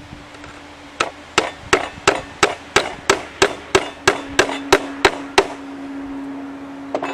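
A hammer driving a nail into wood: about fourteen quick, even blows at about three a second, stopping about five seconds in, then a faint double knock near the end.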